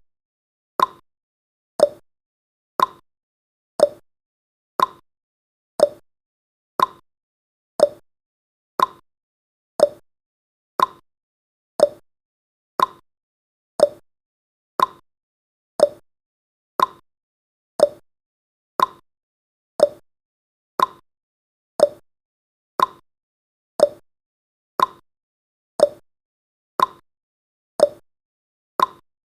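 Ticking-clock sound effect of a countdown timer: a sharp tick once a second, alternating between a higher and a lower tick like a clock's tick-tock.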